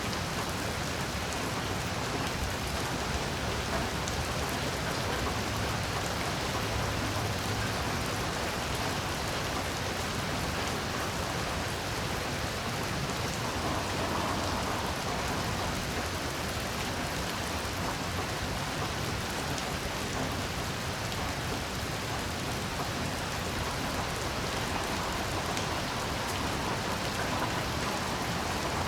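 Heavy rain falling steadily, an even wash of drops with no break or change in loudness.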